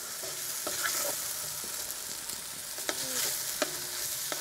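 Schupfnudeln sizzling as they brown in a hot cast-iron Dutch oven over charcoal, stirred with a wooden spatula that knocks lightly against the pot several times.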